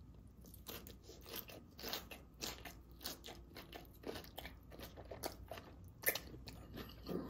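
Close-up crunching and chewing of a mouthful of raw vegetable salad, in irregular crisp crunches, with a sharper click about six seconds in.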